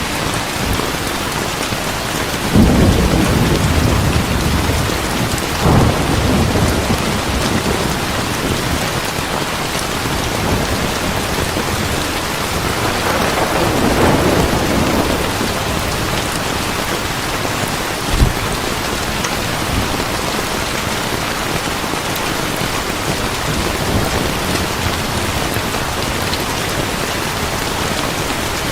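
Heavy rain falling steadily, with rolls of thunder: a loud rumble a few seconds in, another around six seconds in, a longer swell in the middle, and a short sharp crack about two-thirds of the way through.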